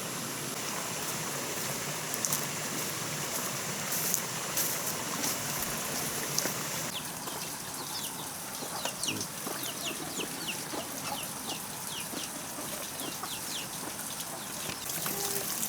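Chickens calling, with many short, high, falling peeps from about seven seconds in, over a steady rush of running water and a few sharp clicks early on.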